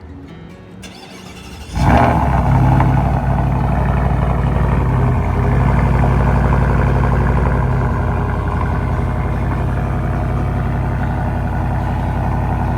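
Supercharged V8 of a Shelby F-150 with a Borla cat-back exhaust starting up about two seconds in with a sharp burst, then idling steadily and settling slightly lower around eight seconds in.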